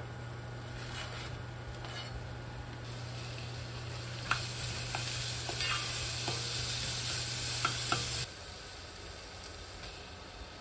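Diced onion sizzling in hot oil in a pot while it is stirred with a wooden spoon, which knocks against the pot several times. The sizzle stops suddenly about eight seconds in.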